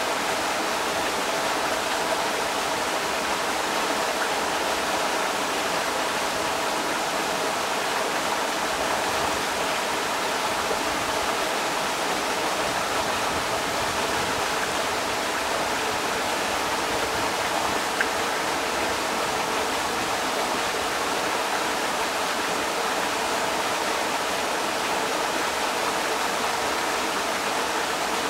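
Creek water rushing steadily over rocks, a constant even wash of noise.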